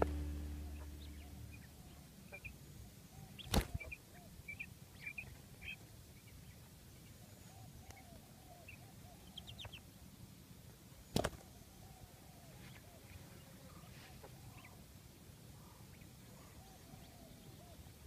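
Background music fades out in the first second. Then come faint, soft chirps and low warbling calls from small ground birds, with two sharp clicks, one about three and a half seconds in and one about eleven seconds in.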